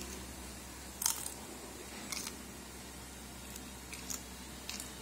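Crisp tortilla chips crunching as they are chewed close to the microphone, in short crackles about once a second.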